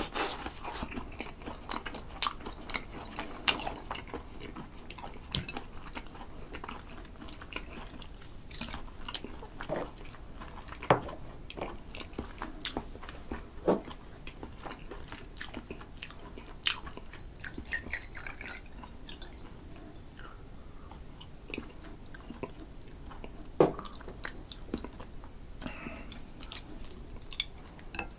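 Close-miked chewing of grilled sea eel in spicy sauce: soft, wet mouth sounds with many scattered sharp clicks, busiest in the first few seconds.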